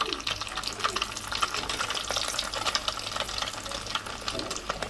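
Food frying in hot oil in a pan: a steady sizzle with dense, irregular crackling.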